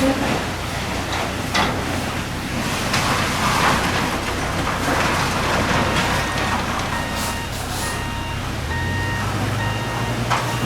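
A large vehicle's reversing alarm beeping steadily, about two beeps a second, starting about six seconds in, over a steady engine rumble and a constant hiss.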